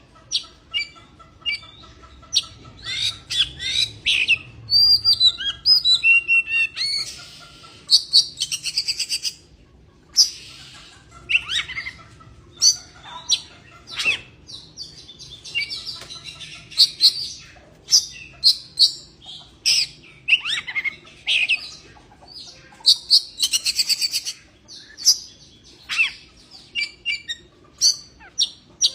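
Oriental magpie-robin (kacer) in breeding condition, singing and calling: a long run of loud, sharp whistled notes, chirps and short trills, repeated with brief gaps.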